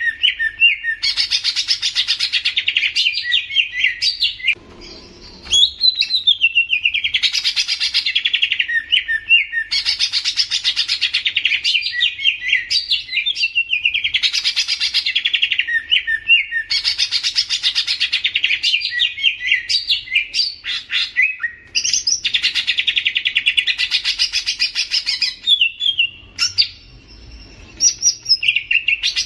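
A songbird singing long, rapid chattering phrases of trills, each lasting about two seconds and repeated after brief pauses, with softer scattered chirps near the end.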